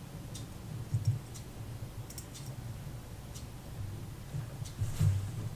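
Faint, sharp little clicks roughly once a second over a low steady hum, with a louder clink near the end: small parts and tools being handled on a watchmaker's bench during reassembly of a mechanical watch.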